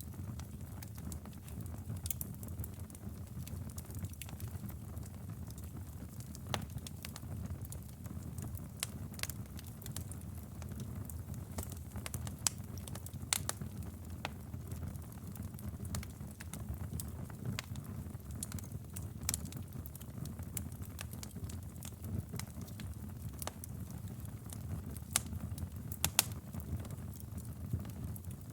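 Wood fire burning in a fireplace: a steady low rumble of flames with irregular crackles and pops, a few louder snaps among them.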